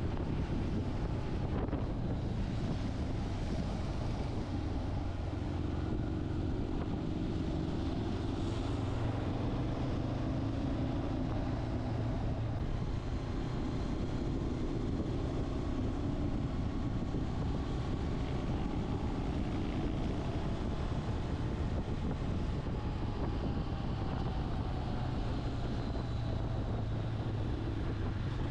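Motorcycle engine running steadily while riding, its pitch drifting slightly up and down with speed, with wind rushing over the microphone.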